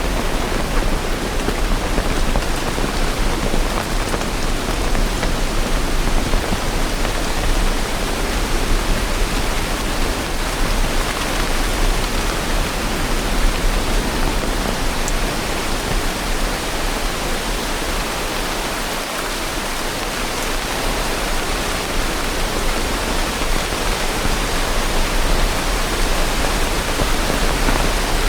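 Steady rain, an even hiss that dips slightly in level about two-thirds of the way through.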